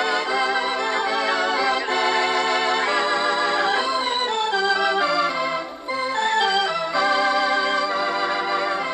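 Electronic organ music: sustained chords that move from one to the next every second or so, with a brief gap about six seconds in.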